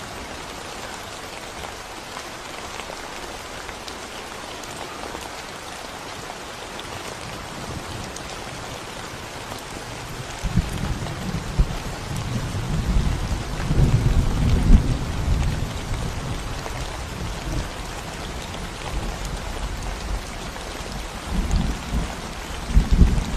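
Steady rain falling on a concrete road and surrounding plants, an even hiss of drops. From about ten seconds in a deep low rumble swells up, peaks, fades, and returns briefly near the end.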